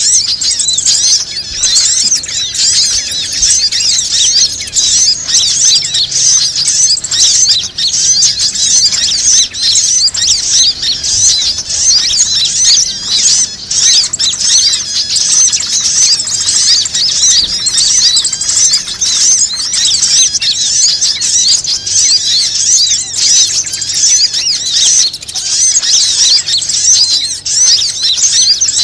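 A dense chorus of many small birds chirping and squeaking at once: high, overlapping calls with no break, played as a bird-lure (pikat) recording to draw in other birds.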